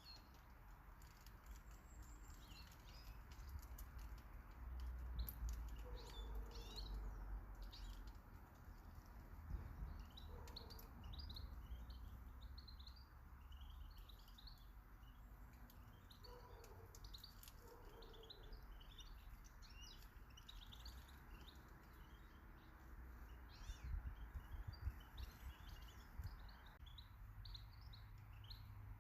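Small garden birds chirping and twittering faintly: many short, high calls in quick succession, with a few lower calls now and then and a low rumble underneath.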